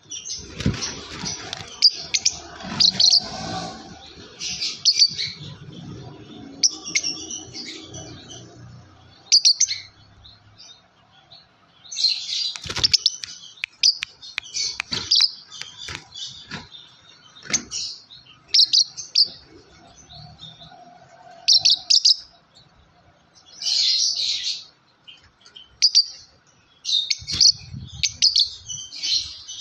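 A yellow lovebird chirping in clusters of quick, high chirps separated by short pauses. There are a few soft knocks and rustles, mostly near the start.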